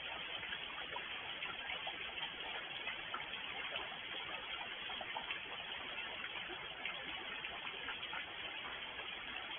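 Steady rain: an even hiss of rainfall with a dense patter of individual drops ticking throughout.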